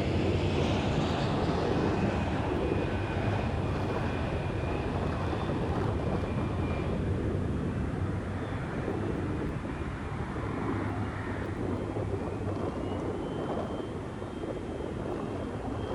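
Jet aircraft engines on a takeoff departure: a steady rumble with a faint whine that slowly fades as the aircraft climbs away.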